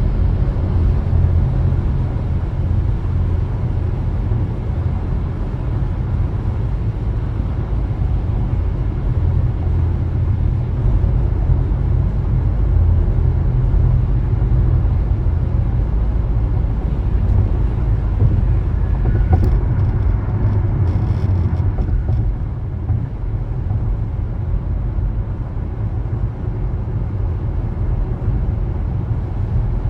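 A car driving, a steady low rumble of engine and tyre road noise. A few faint clicks come about two-thirds of the way through.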